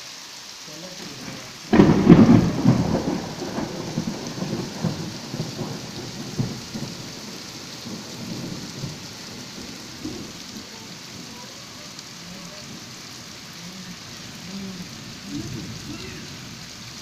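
Steady rain falling, with a sudden loud thunderclap about two seconds in that rumbles on and fades away over several seconds.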